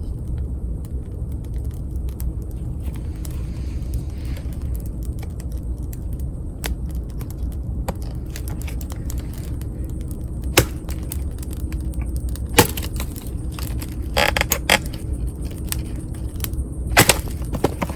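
Wood campfire burning, with scattered sharp pops and crackles from the burning wood over a steady low rumble; a short cluster of crackles comes about two-thirds of the way through.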